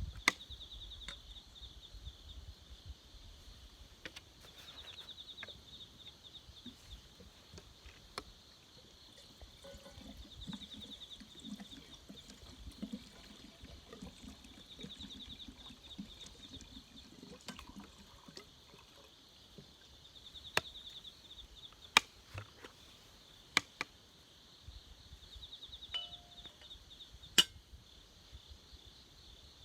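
Campfire crackling with a few sharp pops, over an insect trilling in short high-pitched bouts every few seconds.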